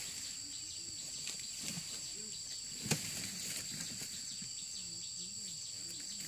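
Steady high-pitched drone of insects calling, with faint low wavering calls underneath and a sharp click about three seconds in.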